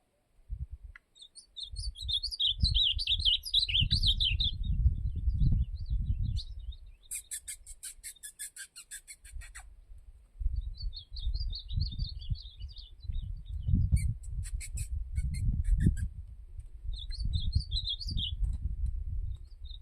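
Azulão (ultramarine grosbeak) singing short warbled phrases three times. Twice between the phrases there is a rapid dry rattle of clicks lasting about two seconds, over a low rumble.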